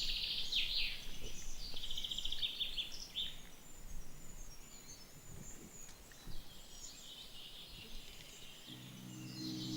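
Small birds singing: repeated high, fast trills, strongest in the first three seconds and fainter later. A low, steady tone comes in near the end.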